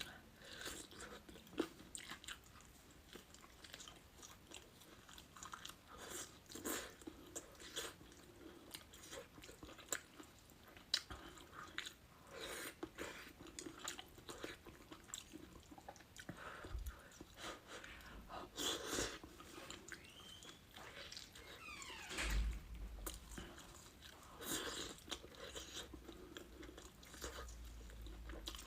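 Close-miked eating: a person biting and chewing crunchy food, with crisp crunches at irregular moments.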